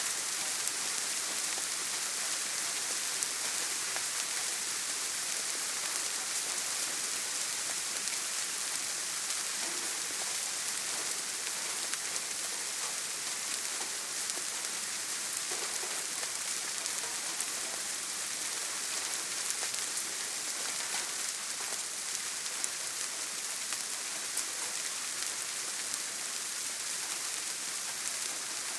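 Rain falling steadily on a tin roof: a dense, even hiss with small sharp drop taps scattered through it.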